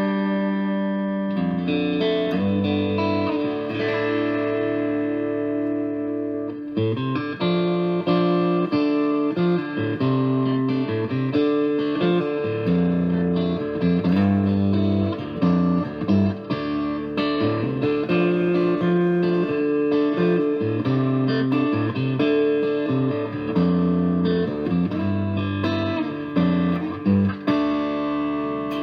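Electric guitar (a Strat-style Epiphone) played clean through a Boss Katana 50-watt amp's clean channel, with an Amazon Basics compressor pedal engaged. A few held chords ring out, then from about seven seconds in comes a steady run of picked notes and short chords.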